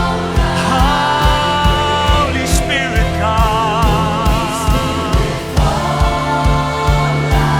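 Live worship band playing: a steady kick-drum beat under sustained chords, with a held melody line wavering in vibrato through the middle.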